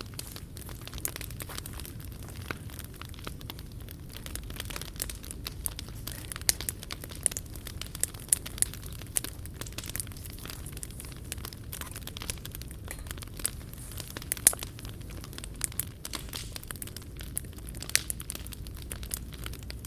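Wood fire crackling in a fire stand, with irregular sharp pops and snaps and a steady low rumble beneath.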